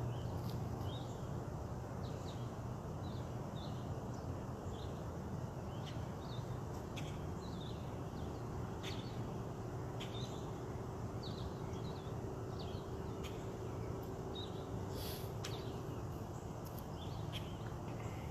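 Songbirds chirping in short, repeated notes over a steady low rumble of road traffic.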